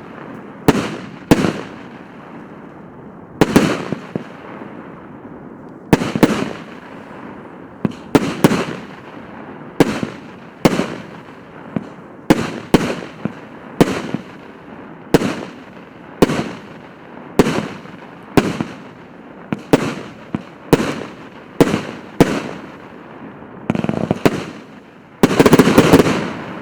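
A 150-shot, 1.2-inch consumer firework cake (battery) firing: sharp bangs of shots and bursts about every second, often in pairs, ending in a rapid salvo of shots near the end.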